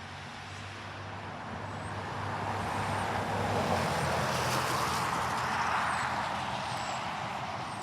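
A car passing by: its engine hum and tyre noise swell to a peak about four to five seconds in, then fade away.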